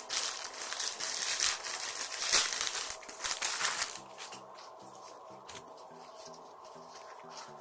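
Close-up crunching of crispy fried food being bitten and chewed, loud and crackly for about four seconds, then dropping to quiet chewing under faint background music.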